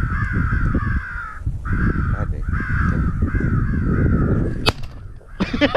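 Crows cawing in a fast, unbroken chain of about three harsh caws a second over a low rumble, stopping near the end with a sharp click.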